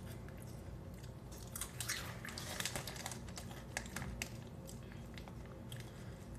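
Chewing a mouthful of Cheetos Xtra Flamin' Hot crunchy corn puffs, a run of crisp crackling crunches that are busiest from about one and a half to three seconds in.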